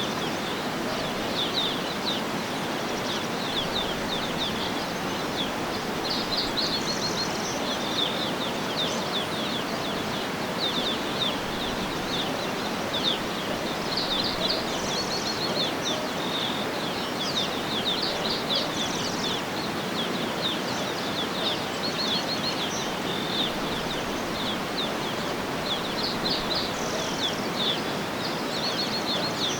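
Birds chirping and singing in quick trills of repeated high notes, scattered throughout, over a steady background hiss.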